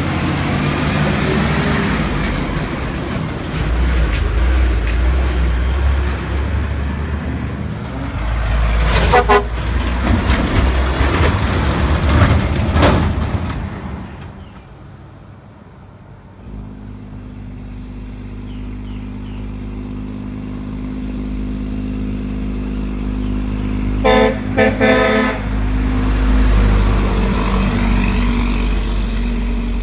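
Heavy trucks passing on a wet street, diesel engines running with tyre hiss, then a truck engine running steadily after a brief lull. An air horn sounds one short blast about nine seconds in and a quick series of short toots near the three-quarter mark.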